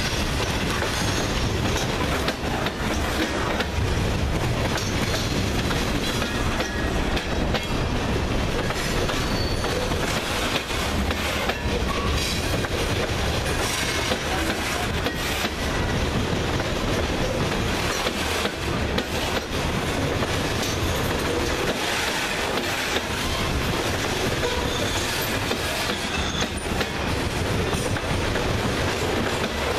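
Freight train of covered hopper cars rolling past at close range: a steady rumble of steel wheels on rail, with continual clacking as the wheels run over rail joints.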